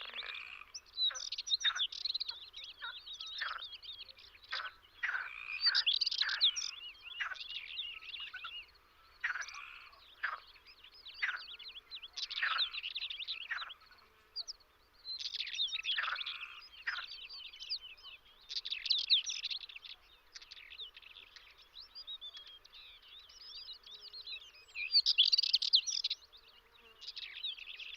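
Small songbirds chirping and twittering in short, irregular bursts, some brief and quick, others longer trills.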